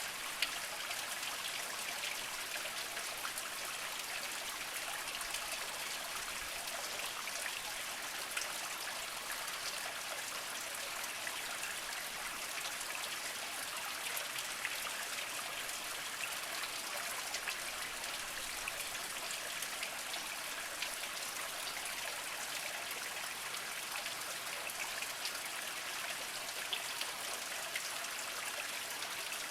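Small mountain spring trickling over mossy rocks: a steady splashing trickle with many small drips.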